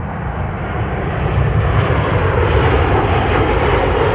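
Southwest Boeing 737 jet airliner passing low overhead on landing approach, its engines a loud rushing noise that grows louder over the first couple of seconds and stays loud.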